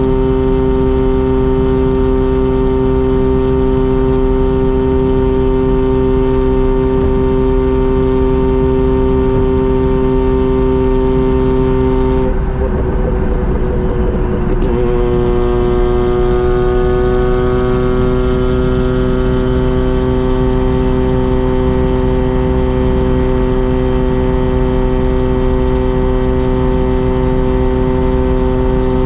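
Mazda RX-7's two-rotor rotary engine and exhaust while driving: a steady drone at constant revs, a gear change about twelve seconds in, then the note picking up again slightly lower and rising slowly as the car accelerates in the new gear.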